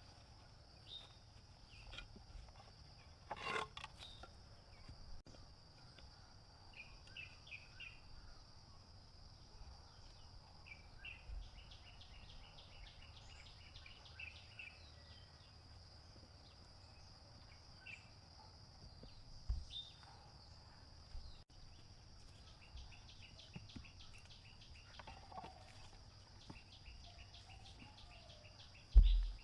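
Insects shrilling steadily in a high continuous drone, with rapid chirping trills that come and go. A few sharp knocks, and one louder thump near the end.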